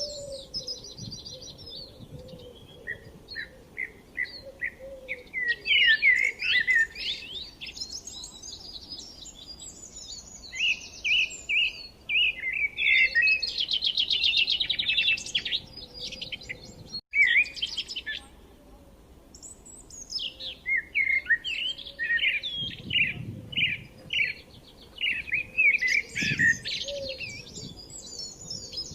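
Songbirds singing: phrase after phrase of quick repeated chirps, rapid trills and sweeping whistled notes, with a short break partway through.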